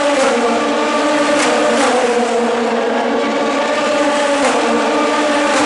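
Race cars at full speed on a circuit straight, several engines running together in a steady, loud drone with a few short sharp cracks about a second and a half and four and a half seconds in.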